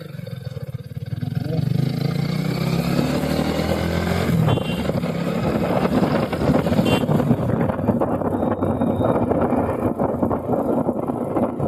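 Motorcycle engine accelerating, its pitch rising over the first few seconds, then a steady rushing noise as speed builds.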